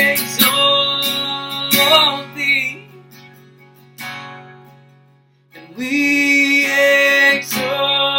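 Strummed acoustic guitar with a voice holding long sung notes. The music dies away to quiet in the middle and comes back in about five and a half seconds in.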